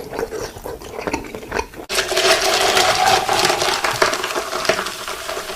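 Close-up eating sounds: scattered crackles and crunches of chewing, then after an abrupt cut about two seconds in, a louder, denser stretch of crunching.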